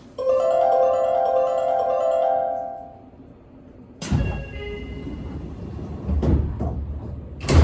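A short electronic chime melody of several bright, bell-like notes rings out for about two and a half seconds. About four seconds in, a rush of noise and low rumble starts, and a heavy thump comes near the end.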